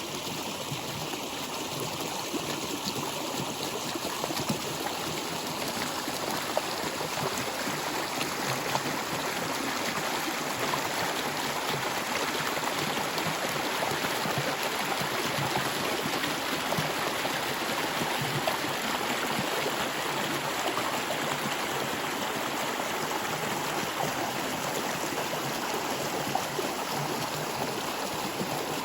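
Stream water flowing steadily, a continuous rushing with small gurgles and splashes.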